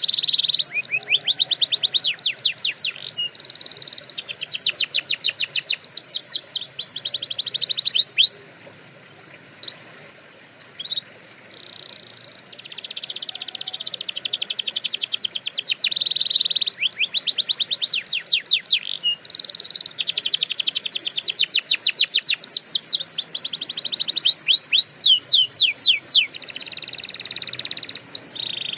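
Canary singing: fast trills of rapidly repeated notes with some held buzzing rolls, breaking off for a few seconds about a third of the way in before resuming.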